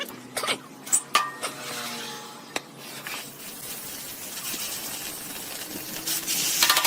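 A few sharp metallic clinks and knocks in the first three seconds, then a low steady hiss, and a quick run of clinks with a ringing tone near the end.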